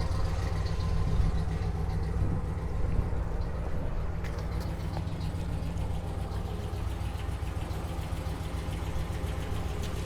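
Ram pickup's Hemi V8 idling steadily, a low even hum.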